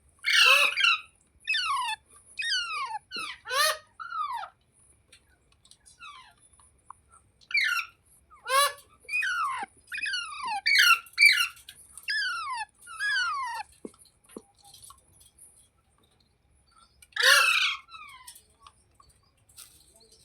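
Green ringneck parrot calling: a string of short squeaky squawks, each sliding down in pitch, in clusters with pauses between. Two louder, harsher screeches come right at the start and again about 17 seconds in.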